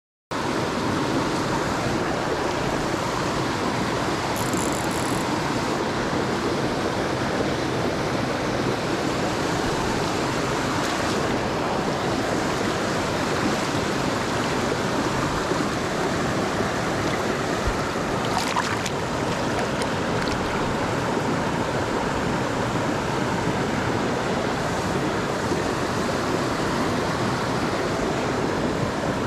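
Mountain stream water rushing steadily, cutting in abruptly after a moment of silence.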